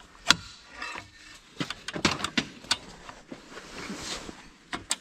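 Sharp metallic knocks and clinks of parts and tools being worked during the compressing and bolting of a corn head assembly: one loud strike about a third of a second in, then a quick run of clinks around two seconds in and another near the end.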